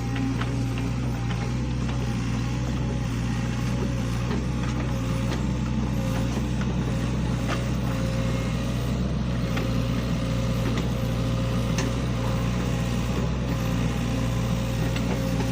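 SANY hydraulic excavator working, its diesel engine running steadily with a thin whine over it and a few faint clicks.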